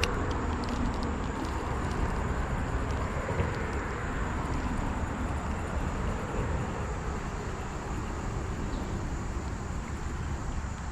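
Steady outdoor background noise with a heavy low rumble that eases slightly toward the end, under a thin steady high-pitched tone and a few faint clicks.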